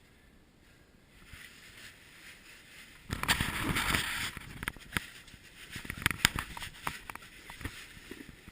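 Clothing and gear rustling and scraping against rock as someone shifts in a tight cave passage, loudest for about a second three seconds in, then a string of sharp knocks and clicks.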